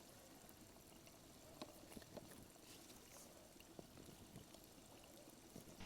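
Near silence: faint outdoor background hiss with a few soft, scattered clicks.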